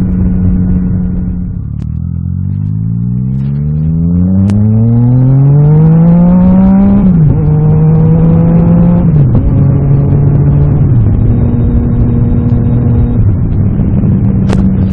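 Yamaha MT-09 Tracer's three-cylinder engine, running loud with the exhaust baffle removed. It eases off briefly, then accelerates hard with the pitch climbing. It drops sharply at each of three upshifts and settles into a steady cruise near the end.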